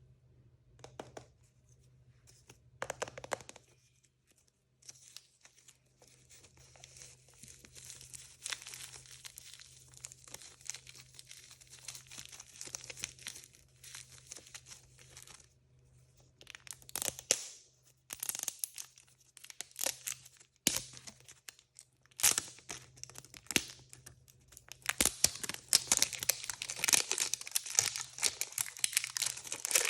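Plastic blind-bag packaging being torn open and crinkled by hand: a long stretch of rustling and tearing, then several short rips, then dense crinkling near the end.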